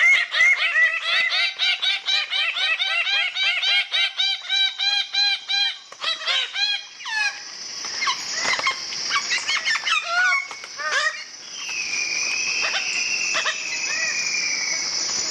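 Bird-of-paradise calls: a fast run of loud, harsh repeated calls, about four a second, for roughly six seconds. Then come scattered calls and a long falling whistle over a steady high hiss.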